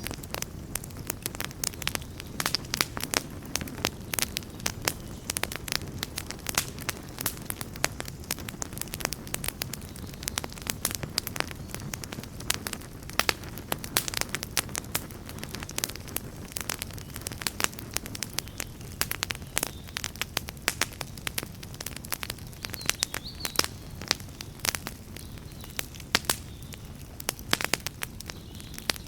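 Wood campfire crackling: irregular sharp pops and snaps, many a second, over a steady low rush of the burning fire.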